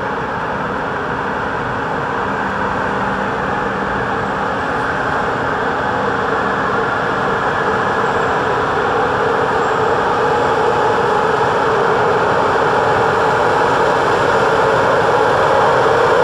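Train running on the line with a steady noise that grows gradually louder as it draws nearer.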